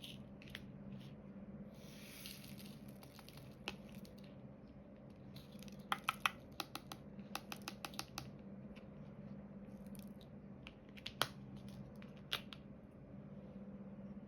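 Faint hand-work of diamond painting: a brief rustle, then a quick run of light sharp clicks and taps, with a couple of single louder clicks near the end. These are the sounds of the drill pen, resin drills and tray.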